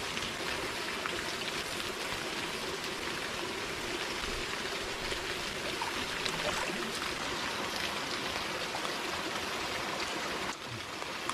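Steady rush of water from a small warm waterfall pouring into a hot spring pool, briefly dipping in level near the end.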